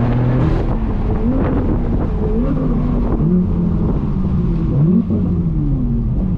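Straight-piped BMW M4 F82's twin-turbo inline-six engine being driven, its revs dropping and rising again several times in short surges, with a deep exhaust rumble underneath.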